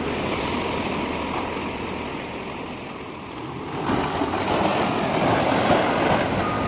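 Floodwater rushing, a steady noise with no clear pitch. About four seconds in it turns louder and rougher.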